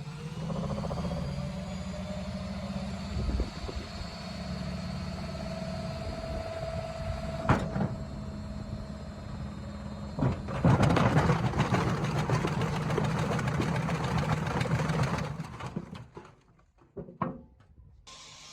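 Washing machine running, its motor humming with a whine that slowly rises in pitch as the drum speeds up, and a sharp knock about seven seconds in. It then breaks into loud rattling and banging for about five seconds before dying away, with a few clicks near the end.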